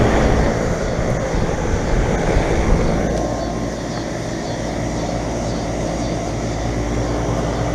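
Bryant Legacy Series central air conditioner's outdoor condensing unit running steadily: a constant low compressor hum under the even whoosh of the condenser fan.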